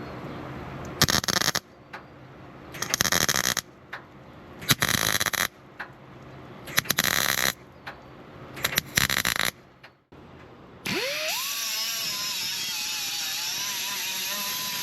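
A handheld power tool working on a car's sheet-metal body in short bursts, about one every two seconds. About eleven seconds in, a tool spins up with a fast-rising whine and keeps running steadily.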